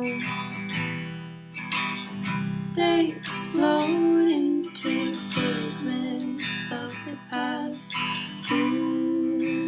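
Music led by a strummed acoustic guitar, chords struck in an irregular rhythm with some held notes.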